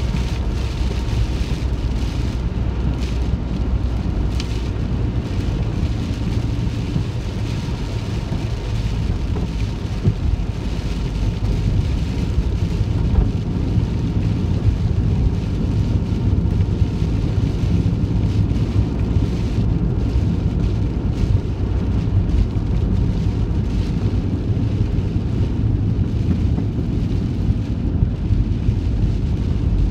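Heavy rain falling on the roof of a moving van, a steady patter of drops over the low, steady rumble of the van on the road.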